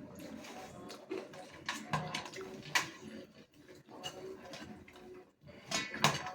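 Close-miked eating of pua and aloo baingan sabji: wet chewing and mouth sounds with scattered small clicks, and two sharper clicks about three seconds and six seconds in.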